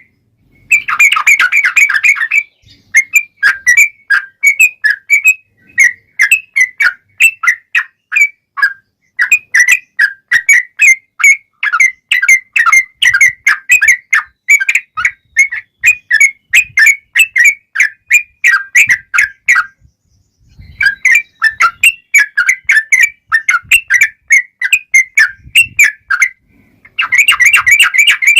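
Yellow-vented bulbul (trucukan) singing a long, fast run of chirping notes with barely a break, pausing once for about a second near the two-thirds mark.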